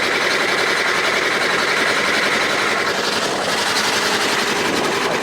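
Boat engine running steadily as the boat motors along.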